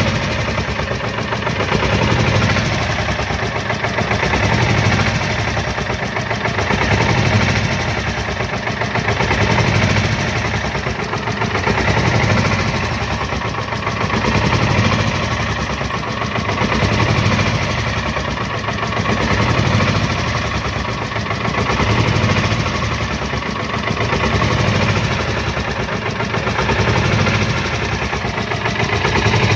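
Polaris Ranger XP 1000's twin-cylinder engine idling, its level swelling and easing about every two and a half seconds. This is the uneven running of an engine logging misfire fault codes.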